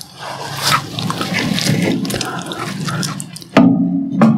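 Close-up chewing of a crunchy glucose biscuit: steady crackling with small clicks, and two louder crunches near the end as another bite is taken.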